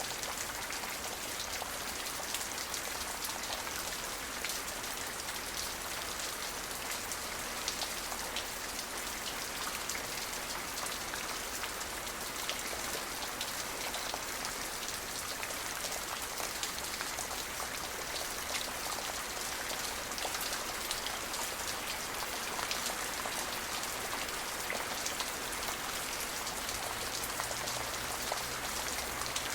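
Steady rain falling, a constant hiss of drops with many small individual drop ticks hitting a surface.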